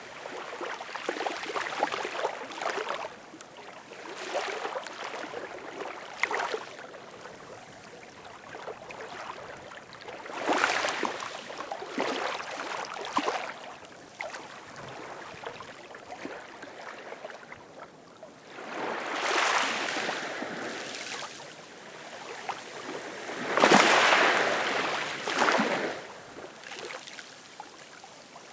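Ocean waves washing in on the shore in irregular surges, each swelling and falling away over a second or a few seconds, with the loudest wash near the end.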